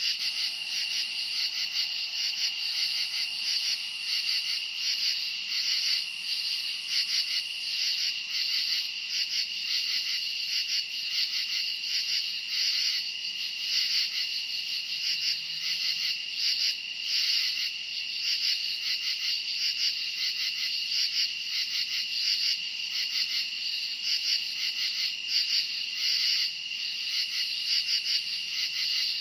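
A dense chorus of crickets chirping steadily at night, many insects trilling together in a high, pulsing band.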